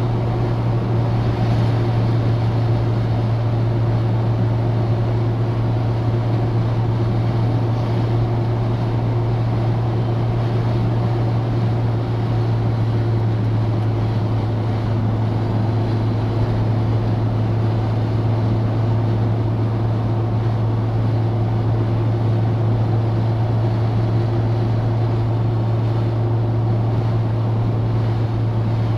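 Citroën DS four-cylinder engine and car running at a steady cruise: an even, unchanging low drone mixed with road and wind noise.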